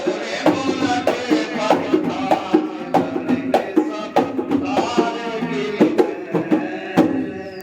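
Rasiya folk song: a voice singing over dhol and rattle-like percussion keeping a steady beat, about two to three strokes a second. The music thins out near the end.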